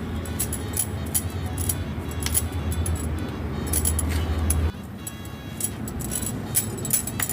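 Background music with a quick run of light clinks and rattles, and a low hum that cuts off suddenly about two-thirds of the way through.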